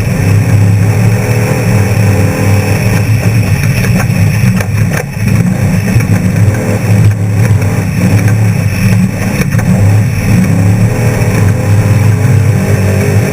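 Off-road trophy truck's V8 race engine running hard with a loud, steady drone. The drone dips briefly about five seconds in, and a few knocks and rattles come through now and then.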